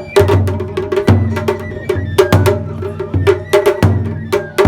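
Japanese festival hayashi drumming: taiko drum beats with sharp, wood-block-like clacks in a quick, uneven rhythm.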